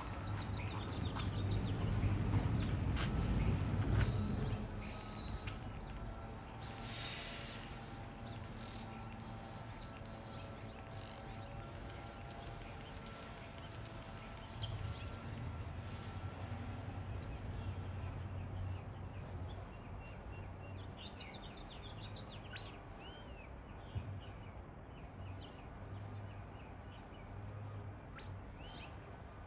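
Wild birds singing: one bird gives a run of about ten quick, high, down-slurred notes in the middle, with other scattered chirps, over a low steady rumble.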